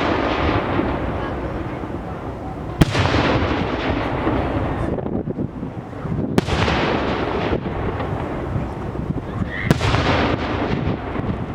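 Fireworks display: three loud aerial shell bursts about three and a half seconds apart, each followed by several seconds of fading crackle and echo.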